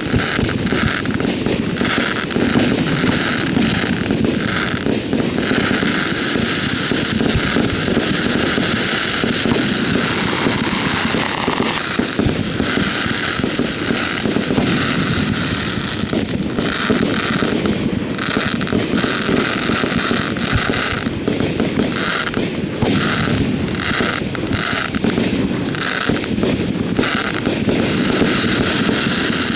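Fireworks display: a dense, continuous barrage of bangs and crackling shells with no pauses.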